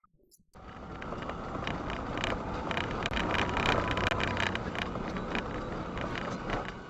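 Car driving noise, a steady rumble and road hiss with many irregular clicks and ticks, starting abruptly about half a second in.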